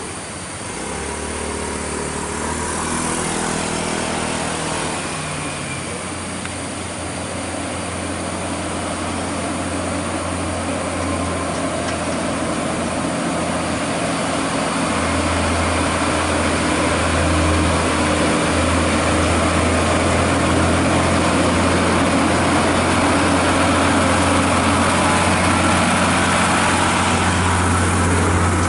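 Heavy truck engine running under load on a steep climb, a steady low drone that grows slowly louder. A few pitch steps early on, then it holds steady.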